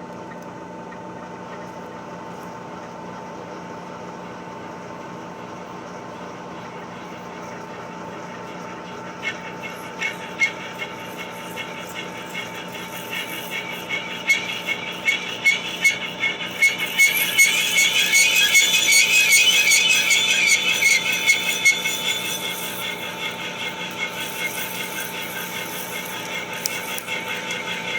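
Large countersink cutting 304 stainless steel plate, chattering with an awful, pulsing, high-pitched squeal over the steady hum of the running machine. The squeal sets in about a third of the way through, is loudest a little past the middle, then eases somewhat but keeps on.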